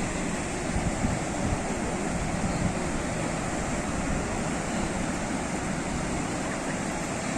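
Ocean surf: a steady wash of waves breaking and rolling on the shore.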